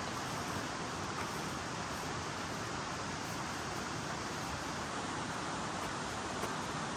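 Steady rush of a river flowing, an even noise with no breaks or changes.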